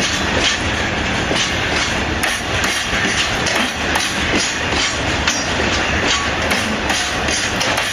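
Freight train rolling past, its wheels clattering steadily with repeated clacks over the rail joints.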